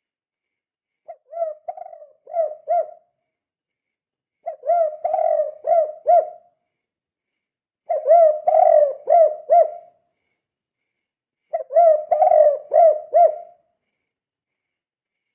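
Spotted dove (tekukur) cooing its 'kuk 2' song: four phrases of several low coos each, about one every three and a half seconds, with silence between them.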